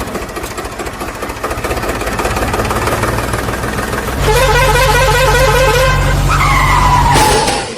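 Cartoon vehicle sound effects: a motor running steadily, growing louder about four seconds in, with a warbling horn-like tone over it and a tone falling in pitch near the end.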